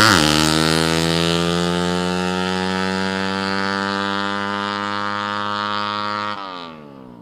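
Tuned 115cc drag-bike motorcycle engine blipped, then held at a steady raised speed; near the end the throttle is let go and the revs fall away.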